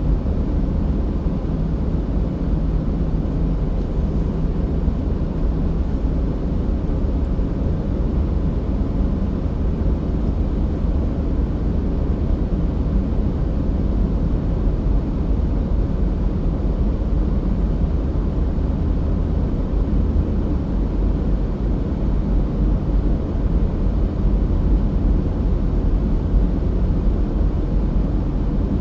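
Car driving at a steady speed: a constant low rumble of road and engine noise.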